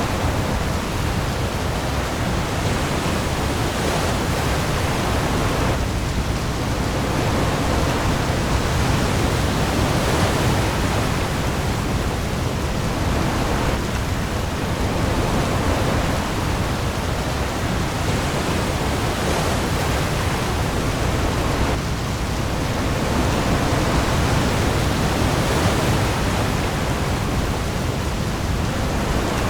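Heavy rain falling on the open sea with waves: a dense, steady hiss over a deep low rumble, swelling and easing gently about every eight seconds.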